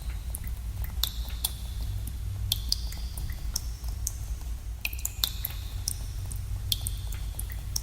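Water dripping in a cave: irregular drops, about one or two a second, each a sharp plink with a short high ring, over a steady low rumble.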